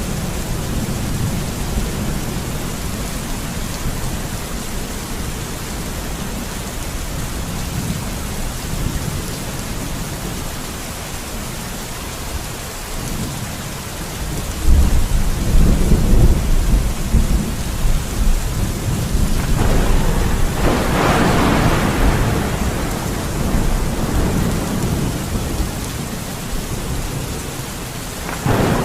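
Thunderstorm: steady rain falling, with low rolling thunder. A louder thunderclap breaks about halfway through, followed a few seconds later by a sharper crack that rumbles on.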